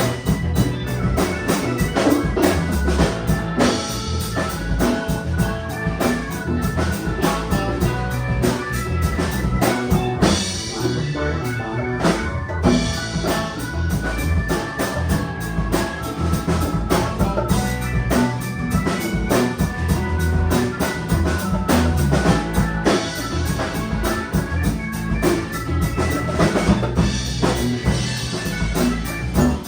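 A band playing live in rehearsal: a drum kit keeps a steady beat with kick, snare and rimshots under bass and other pitched instruments, running without a break.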